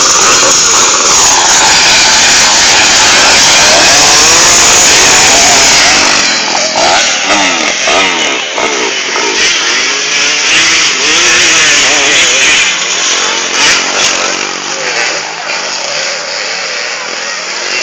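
A pack of motocross bikes running together at high revs, very loud for about six seconds, then individual engines rising and falling in pitch as they rev and shift, fading gradually as they ride away.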